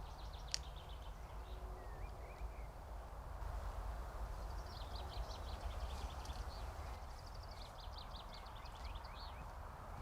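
Songbirds singing in quick trills of short high notes: a brief burst near the start and a longer run through the second half. Under them runs a steady outdoor hiss and low rumble, with one sharp click about half a second in.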